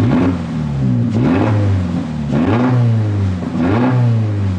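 2023 Toyota GR86's 2.4-litre flat-four revved in four quick blips, each rising and dropping back, running loud through an open exhaust with the stock cat-back removed.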